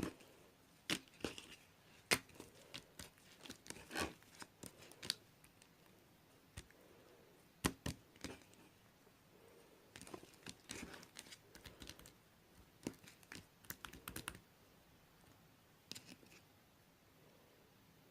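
Bubbly slime being handled, giving irregular crisp pops and crackles in clusters, with short pauses between them.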